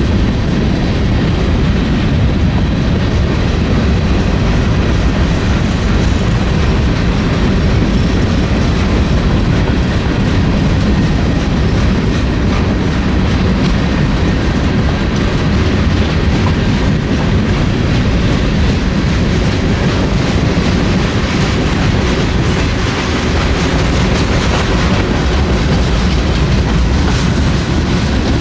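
Freight train cars rolling past: a steady, loud rumble with the clatter of wheels on the rails.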